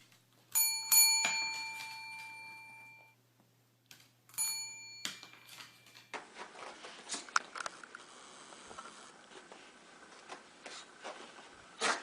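A doorbell-like chime: a ding-dong of ringing tones that dies away over about two seconds, then rings once more, more briefly. After that comes a steady room hiss with scattered light taps and scratches, and one louder knock near the end.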